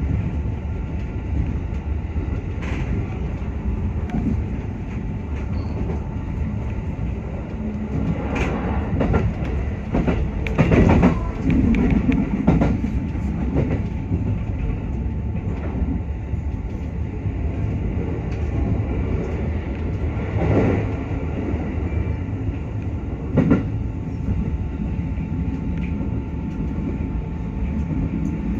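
Running noise heard inside a JR West 221 series electric train at speed: a steady rumble with the wheels clacking over rail joints now and then, in a louder cluster about ten to thirteen seconds in.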